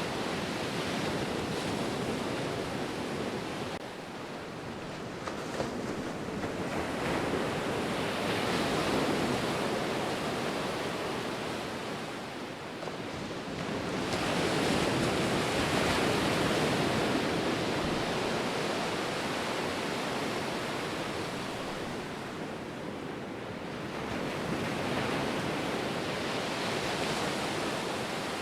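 Ocean waves breaking and washing on a shore, the surf swelling and falling away in slow surges every several seconds.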